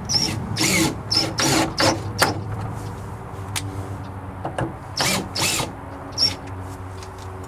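Power drill driving screws into wood in short bursts: a run of quick bursts in the first two seconds, and two more about five seconds in.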